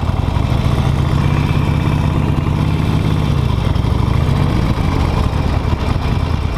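Harley-Davidson Nightster's V-twin engine running while the motorcycle rides along, with a steady rush of wind noise. The engine note holds steady, then drops about three and a half seconds in as the throttle eases.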